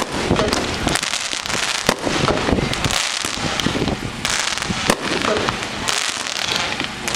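A 200-gram consumer firework cake firing: a dense, unbroken string of sharp shots and pops.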